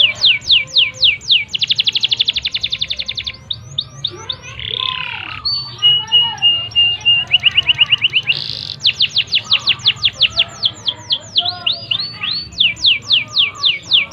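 Domestic canary singing a long, loud song of fast-repeated downward-sweeping notes. It has a rapid trill about two seconds in and a held steady whistle-like note about six seconds in.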